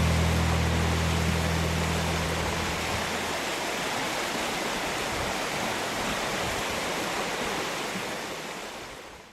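The last low chord of the hymn accompaniment dies away over about three seconds, leaving a steady rushing noise like running water that fades out just before the end.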